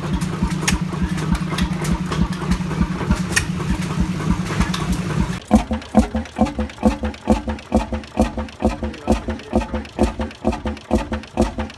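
Old Fairbanks Morse engine running with a steady drone and fast, even exhaust pulses. About five seconds in, the sound cuts to a slower-running engine whose separate firing beats come about three a second.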